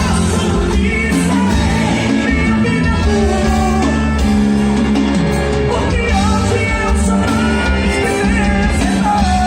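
Live band music with singing and a strong steady bass.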